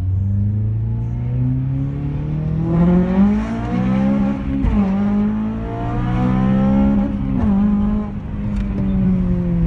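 Honda Civic Type R's four-cylinder engine on an aftermarket 63 mm exhaust with branch manifold and induction kit, revving hard: the pitch climbs, holds high with two brief dips, then falls away near the end.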